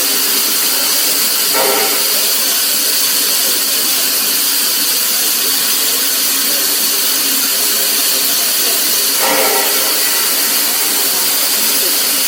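Steam locomotive standing with a steady, loud hiss of escaping steam. Twice a brief falling tone cuts through the hiss.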